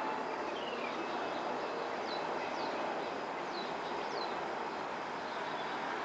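Steady traffic hum with a bird singing over it. The bird gives short, downward-slurred whistled notes: one lower note just under a second in, then four higher ones in quick succession between about two and four seconds in.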